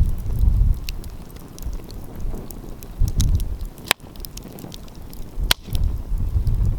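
Wood fire crackling, with many small snaps and two sharp pops near the middle, under gusts of wind buffeting the microphone.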